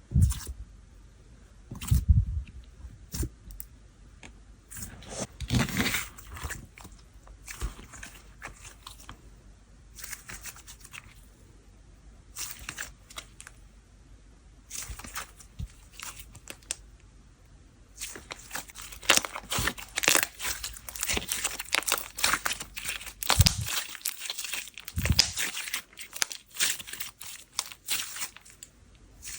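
Whipped-texture slime worked by hand: sticky crackles and small pops. There are two soft thumps near the start, and a dense stretch of crackling through the last ten seconds.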